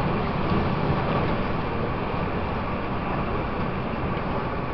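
Steady running noise of a Taiwan Railways EMU800 electric multiple unit, heard from aboard the train in motion: an even rumble that eases very slightly over the few seconds.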